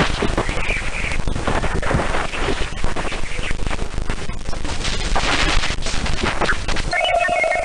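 Sonified spacecraft radio and plasma-wave recording: dense crackling and popping static over a steady hiss. About seven seconds in, a steady tone with higher beeping tones starts up.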